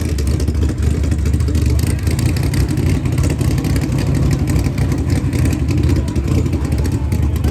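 A car's loud exhaust, its engine running at a steady, deep level for the exhaust competition.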